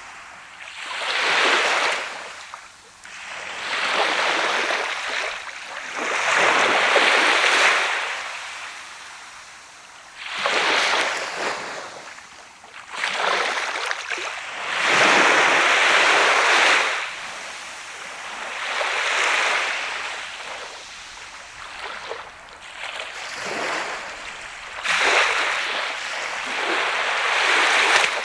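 Surf on a sandy beach: waves breaking and washing up the shore, the hiss swelling and fading about every two to four seconds.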